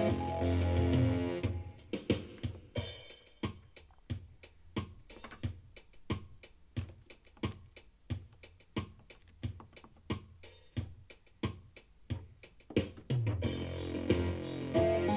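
Yamaha PSR-E303 keyboard playing music: after about a second and a half the pitched parts drop out, leaving a drum-machine pattern alone at about two to three hits a second, and the full accompaniment comes back in near the end.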